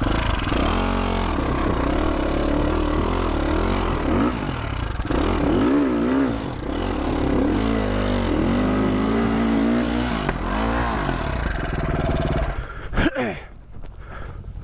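KTM 450 SX-F dirt bike's single-cylinder four-stroke engine revving up and down over and over under load on a hard trail section. Near the end the engine note falls away suddenly with a sharp knock.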